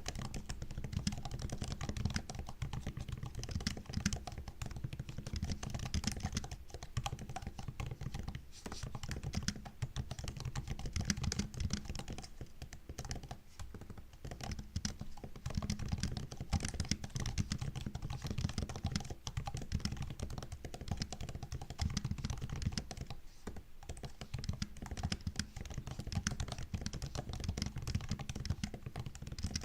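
Typing on a MacBook laptop keyboard: a steady run of quick, soft key clicks and taps, with a few brief pauses, around a third and halfway through and again about four-fifths of the way in.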